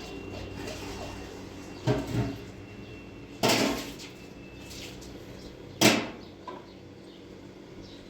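Three sharp knocks about two seconds apart, the middle one longer than the others, over a low steady background hum.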